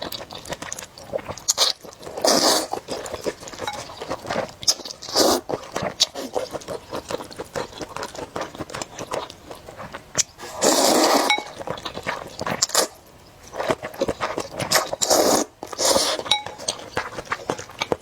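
Close-miked eating of snail noodles and fried chicken: utensils clinking against dishes, crunching and chewing, with a louder rush every few seconds.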